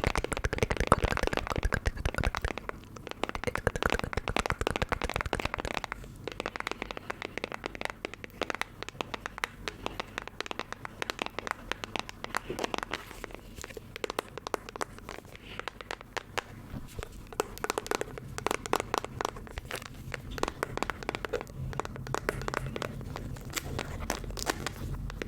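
Close-miked ASMR trigger sounds: an object being handled with dense crinkling and crackling, busiest in the first couple of seconds, then sparser clicks.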